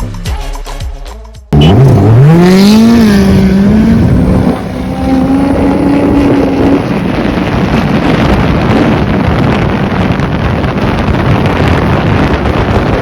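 Background music cuts off about a second and a half in. A jet ski's engine then revs up with a steeply rising pitch and holds high while under way. Toward the middle it gives way to loud wind buffeting the microphone over the running engine and water.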